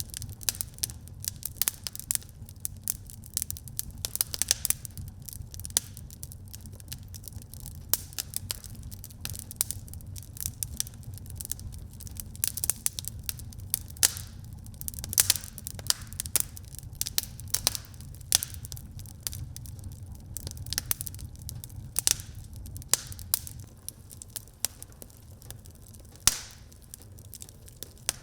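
Wood fire burning in a fireplace, crackling with irregular sharp pops and snaps over a low steady rumble of the flames, one louder pop near the end.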